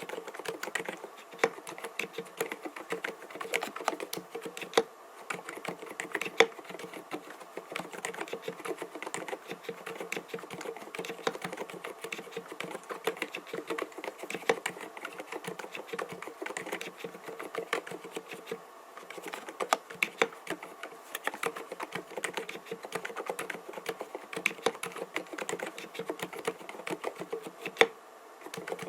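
Continuous fast typing on a mStone Groove T 87A mechanical keyboard with silent (low-noise) Milky linear switches, 45 g: soft, muted keystroke clicks with an occasional louder stroke.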